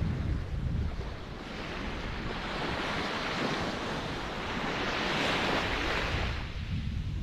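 Ocean waves washing ashore: a rushing hiss that builds over a few seconds and falls away near the end, after a low rumble at the start.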